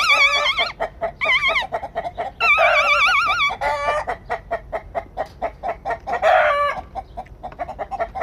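Chickens calling: three long wavering, trilling cries in the first few seconds, then a fast run of short clucks with a louder flurry of calls near the middle.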